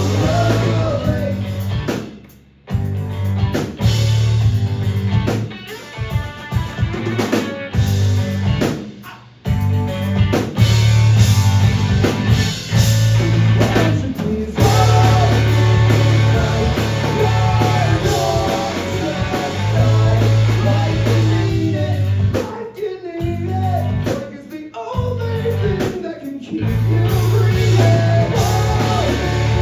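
Live rock band playing: guitar, bass and drum kit together, with several abrupt full-band stops that cut out for a moment before the band crashes back in.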